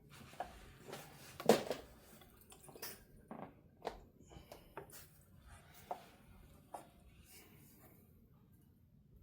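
Scattered light clicks and knocks of hands and tools working on a guitar neck during a check of its straightness after a truss rod adjustment. The loudest knock comes about a second and a half in, and the handling dies down near the end.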